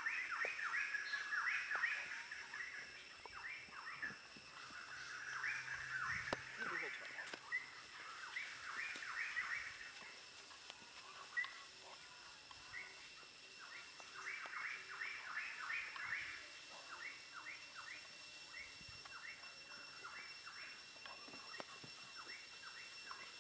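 Small birds chirping in quick runs of short calls, busiest in the first few seconds and again around the middle, over a steady high-pitched whine.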